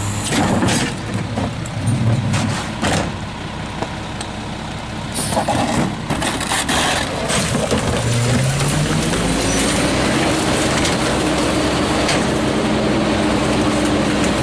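Garbage truck working at the curb: a few sharp clanks and knocks, then, about eight seconds in, the diesel engine's pitch rises and holds steady at higher revs.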